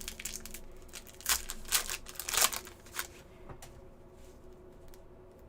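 Trading card pack wrapper crinkling and cards being handled, with a few sharp crinkles between about one and two and a half seconds in, then quieter.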